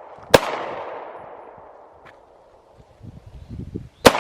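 Sarsilmaz SAR9 9mm pistol fired twice, nearly four seconds apart, each shot followed by a long echo that fades away.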